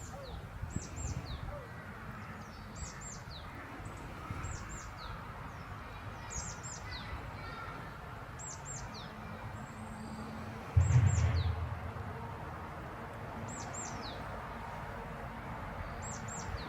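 A small songbird calling over and over: pairs of thin, high notes that slide downward, repeating every second or two. A brief low rumble breaks in about eleven seconds in.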